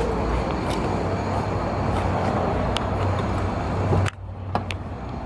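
A car engine running steadily, then a sudden drop to a quieter sound about four seconds in.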